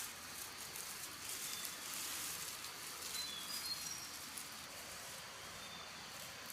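Steady rain falling and pattering on leaves, with a few short, high chirps from a bird in the middle.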